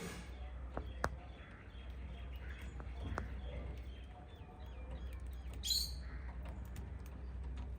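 Pet cockatiels and budgies chirping, with scattered short calls and a quick run of repeated notes, then one sharp high call about six seconds in. A few sharp clicks come in the first few seconds, over a steady low hum.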